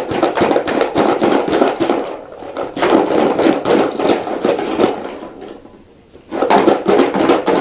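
A key rattling inside a shaken box, in three bouts of rapid clattering separated by short pauses.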